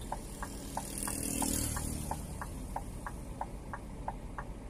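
Scania G 410 truck cab: the engine runs with a low hum under a turn-signal indicator relay ticking steadily, about three clicks a second, alternating between a higher and a lower click. A brief swell of rushing noise comes about a second in.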